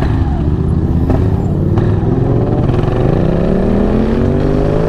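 KTM 690 Duke R's single-cylinder engine pulling under acceleration. Its pitch rises steadily through the second half.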